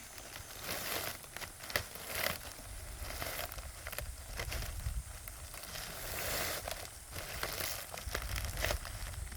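Dry palm leaves rustling and crackling as they are handled, with irregular sharp snaps.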